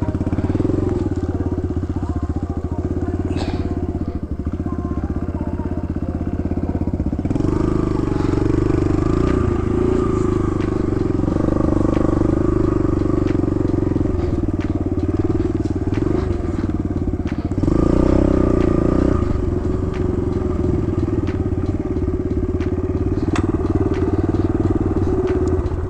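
Kawasaki KLX110 dirt bike's small single-cylinder four-stroke engine running steadily. The engine note steps up and gets louder about seven seconds in and again about eighteen seconds in.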